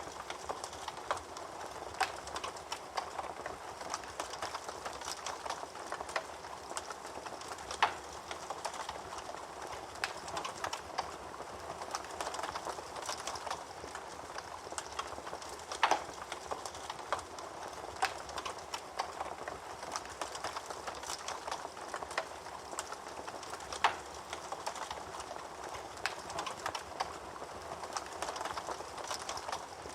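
Wood fire burning in a fireplace, crackling steadily with many small snaps and three louder pops about eight seconds apart.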